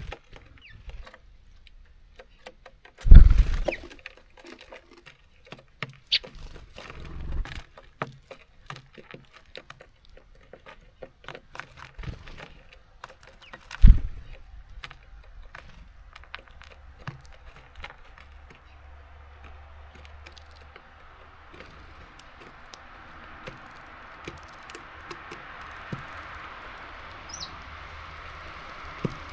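Small birds pecking and hopping at a seed feeder: many sharp taps and clicks, two heavy thumps about three and fourteen seconds in, and a few short chirps. A steady hiss builds up in the second half.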